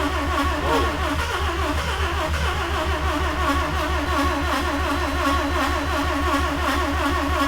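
Starter motor cranking a 1982 Mazda RX-7's carbureted 12A rotary engine with an even, rhythmic pulse: a long crank on a cold engine that has sat for over a year, choke on.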